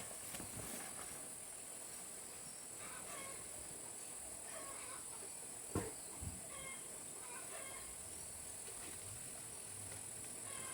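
Chickens clucking now and then over a steady high-pitched drone of insects, with a single dull knock about six seconds in.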